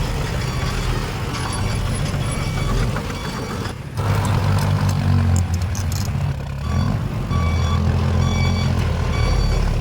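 Heavy diesel earthmoving machinery running with a steady low drone, and a backup alarm beeping repeatedly over it. The sound drops out for an instant about four seconds in and comes back louder.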